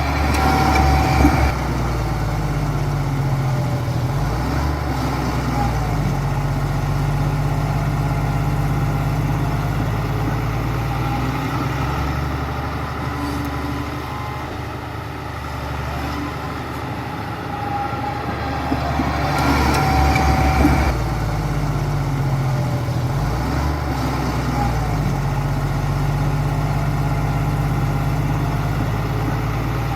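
Bulldozer's diesel engine running under load, its pitch stepping up and down as it works, growing louder and harsher twice: once at the start and once about twenty seconds in.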